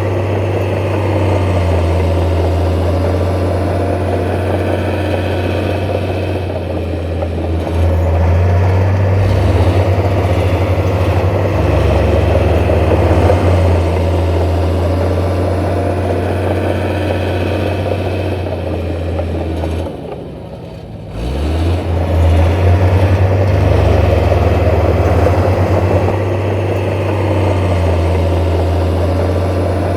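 Heavy diesel earthmoving machinery running steadily with a deep engine drone whose pitch shifts up and down as the load changes. The sound briefly dips about two-thirds of the way through, then comes back up.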